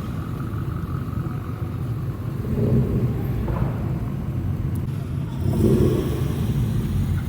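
Modified car's exhaust rumbling as it drives in slowly, with two brief louder swells, one a few seconds in and one near the end.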